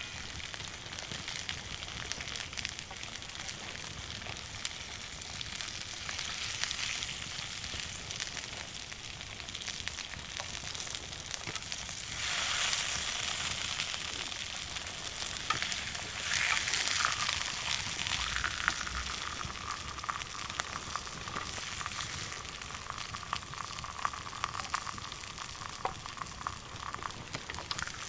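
Steak sizzling over a wood fire, a steady hiss peppered with small crackles. The sizzle swells louder twice around the middle, and a faint thin whistle runs through the second half.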